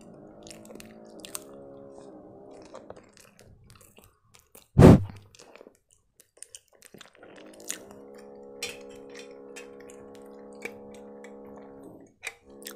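A person chewing strudel pastry close to the microphone, with many small wet mouth clicks and a single loud thump about five seconds in. A steady hum of several tones runs underneath for the first few seconds and again from about seven seconds on.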